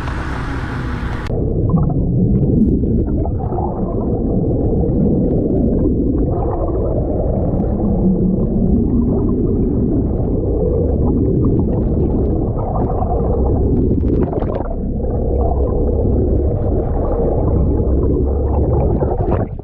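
Muffled underwater sound: a steady low rumble with gurgling, heard through a submerged camera housing. About a second in, the high end cuts off sharply as the microphone goes under the surface.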